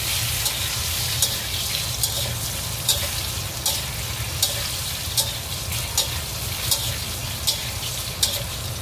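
Boneless chicken thigh pieces sizzling in very hot oil in a stainless steel wok during the second, high-heat fry, stirred continuously. A utensil scrapes the wok about once every three-quarters of a second.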